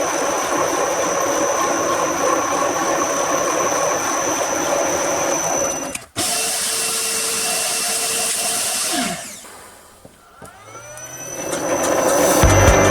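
A power tool motor running steadily with a high whine, cut off abruptly about six seconds in. A second run follows and winds down with falling pitch, then a motor spins back up.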